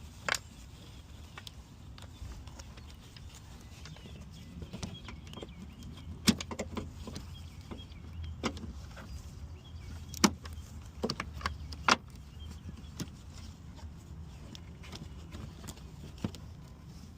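Hand tools clinking and knocking on metal parts while working a fastener: scattered sharp clicks, about five louder ones at irregular intervals, over a steady low background hum.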